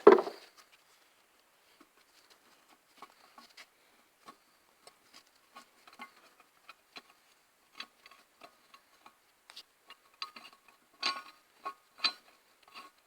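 Small metallic clicks and taps of tools and valve parts on a cylinder head as a valve and spring are fitted with a homemade valve spring compressor. A sharp knock right at the start, then scattered light ticks, and two sharper ringing clinks near the end.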